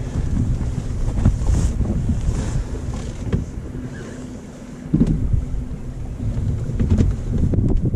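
Strong wind buffeting the microphone, a loud continuous low rumble, over a faint steady hum, with a couple of sharp knocks about five and seven seconds in.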